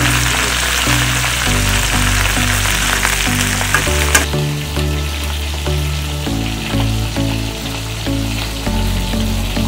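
Food sizzling as it fries in a hot pan, loud for about four seconds, then dropping off sharply after a click and carrying on more quietly. Background music with a steady melody plays throughout.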